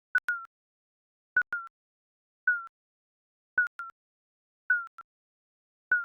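Digital countdown timer beeping about once a second: each beep is a short, slightly falling tone with a click at its onset, often followed by a quick second blip.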